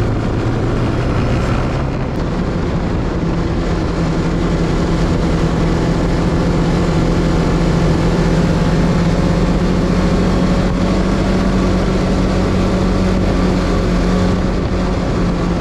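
Snowmobile engine running steadily under way, a continuous loud drone whose hum settles onto a steady pitch about two seconds in.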